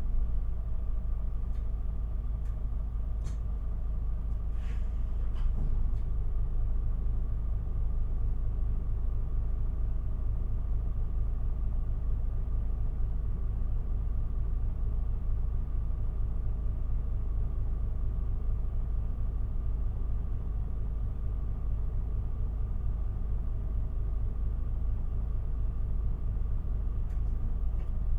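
Cabin sound of an Isuzu Erga city bus: the engine and drivetrain running with a low rumble and a hum that holds one steady pitch throughout. A few faint clicks and rattles come in the first few seconds.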